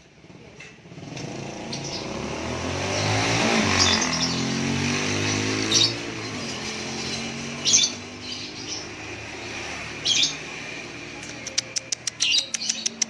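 Caged songbirds chirping in short bright calls a few seconds apart, breaking into a fast run of sharp repeated notes near the end. A motor vehicle passes early on, its hum swelling and then fading under the birds.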